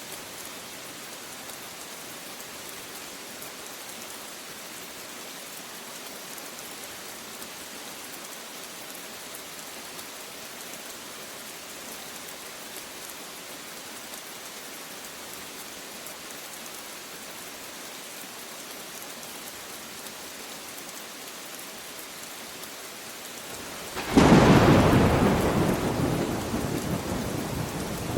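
Steady rain falling, then a loud clap of thunder about 24 seconds in that rumbles and slowly dies away.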